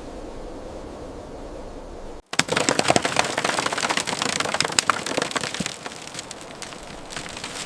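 Rain pattering on a hard surface: a dense, uneven crackle of drop hits that starts abruptly about two seconds in, after a low steady rumble.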